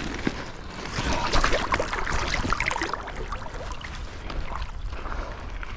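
Creek water splashing and sloshing as a large buffalo fish is lowered back into the water and released, loudest about a second or two in.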